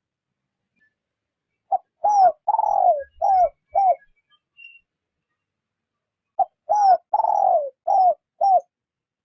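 Spotted dove cooing: two phrases about four and a half seconds apart, each a short opening note followed by four falling coos, the second coo the longest. Faint high chirps of small birds sound in between.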